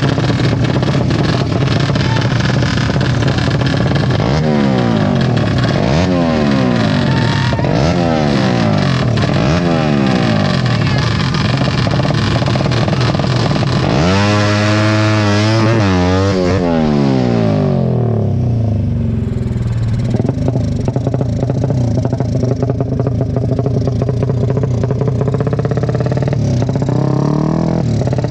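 Tuned racing motorcycle engines running and being revved over and over, the pitch climbing and dropping about every second and a half. A big rev sweep comes around the middle, then they settle to a steady idle, with one more rev near the end.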